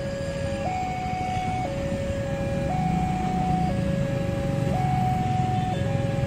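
Two-tone electronic alarm tone alternating between a lower and a higher note, each held about a second, over a low engine-like rumble.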